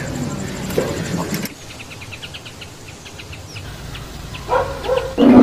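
Rock pigeon cooing, which stops abruptly about a second and a half in. A quieter stretch with faint high ticks follows, then a dog gives two short barks near the end.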